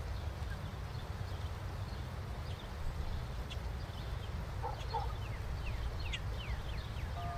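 Steady low rumble of wind on the microphone, with faint bird chirps and a quick run of short falling chirps near the end.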